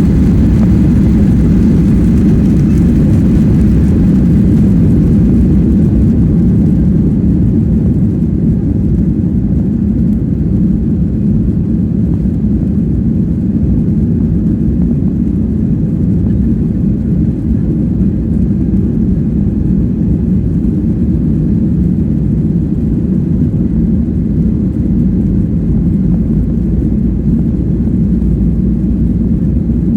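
Steady low rumble of a Boeing 737-800's CFM56-7B jet engines and rushing air, heard inside the passenger cabin. It is a little louder and brighter in the first few seconds, then steady.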